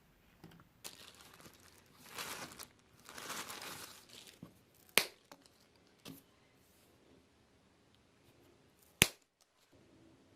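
Material being handled, crinkling and rustling for a few seconds, then two sharp snaps about four seconds apart.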